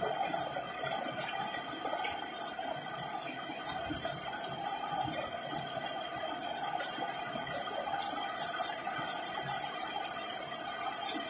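Heavy rain falling steadily, with many small drop impacts on the leaves of potted caladium plants and the balcony around them.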